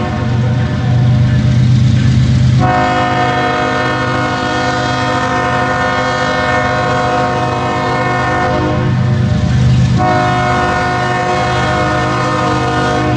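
Diesel locomotive air horn blowing long blasts, with a short break about nine seconds in, over the steady rumble of the train.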